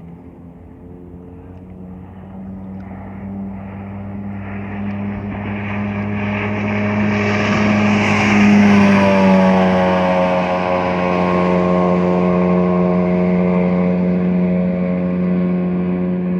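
Mercury 135 V6 outboard engine on a speedboat running at speed in a fly-by. The engine note grows louder as the boat approaches, with a hiss swelling as it passes about halfway through. The pitch then drops as it goes by, and the engine stays loud afterwards.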